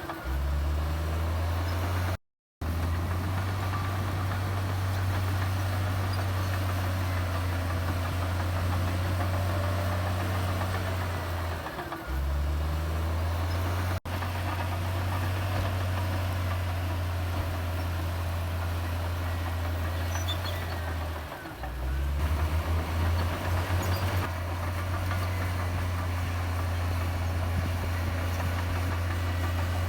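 Heavy diesel engine of a Komatsu D58E bulldozer running with a steady low drone. The sound drops out completely for a moment about two seconds in, dips briefly twice later, and pulses rapidly for about two seconds past the twenty-second mark.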